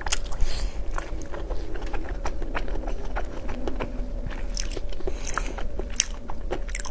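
Close-miked eating: biting and chewing, with many small irregular wet clicks and smacks of the mouth.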